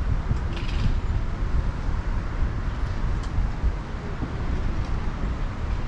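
Steady low rumble of wind buffeting the microphone and road noise from a bicycle being ridden along a city street. There is a brief rattle about half a second in and a single click about three seconds in.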